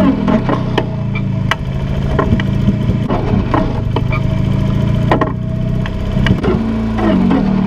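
Farm tractor engine running, its pitch shifting up and down a few times, with frequent clanks and knocks over it.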